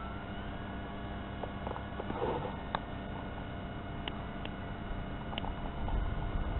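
Wind rumbling on the microphone, growing stronger near the end, over the faint steady whine of an RC warbird's electric motor at low throttle. The whine edges up slightly in pitch at the start. A few light clicks come through.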